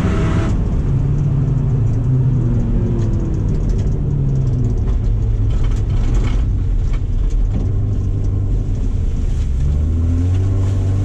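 2007 Subaru Impreza's flat-four engine running hard under racing load, its pitch rising and falling again and again as it revs up through the gears and drops back, with a steady low rumble beneath.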